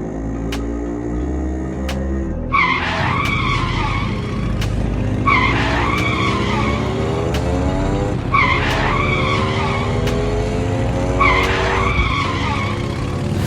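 Racing motorbike engine sound effect revving in repeated rising sweeps. About every three seconds a tire squeals for a second or so, four times in all.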